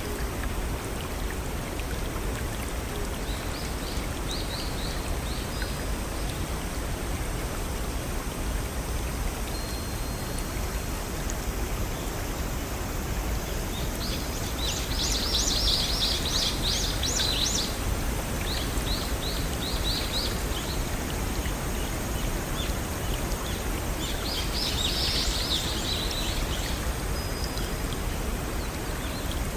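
Steady rush of a small stream and waterfall. Over it, a songbird sings short bursts of rapid high chirps, faint early on, loudest about halfway through and again near the end.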